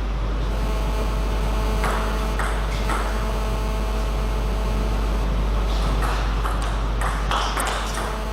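Table tennis ball being hit and bouncing on the table in a rally: three knocks about half a second apart around two seconds in, then a quicker run of knocks near the end, over a steady low hum.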